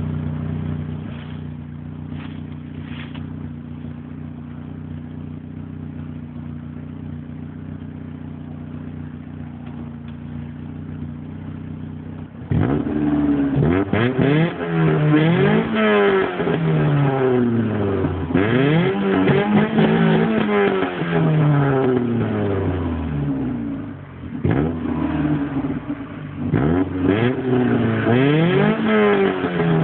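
Opel Corsa B GSi four-cylinder engine, fitted with individual throttle bodies and an exhaust with no middle silencer, idling steadily for about twelve seconds. It is then revved up and let fall back several times in quick succession.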